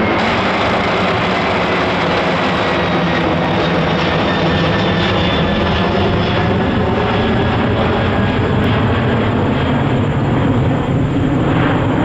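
Jet airliner's engines running loud and steady as the aircraft passes, with a faint high whine that slowly falls in pitch over the first few seconds.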